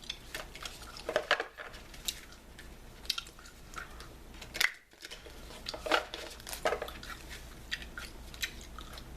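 Bubble gum chewed close to the microphone with irregular wet clicks and snaps, mixed with the handling and shuffling of a deck of oracle cards. The sounds pause briefly about halfway through.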